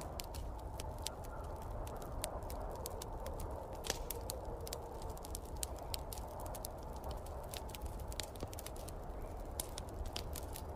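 Wood fire crackling with many irregular sharp pops and ticks, over a steady low rushing of snowstorm wind.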